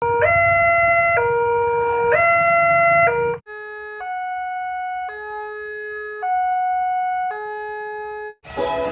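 Electronic level-crossing warning alarm sounding a two-tone pattern that alternates high and low about once a second, over low traffic rumble. About three and a half seconds in it cuts abruptly to a cleaner alternating tone sequence that stops just before the end.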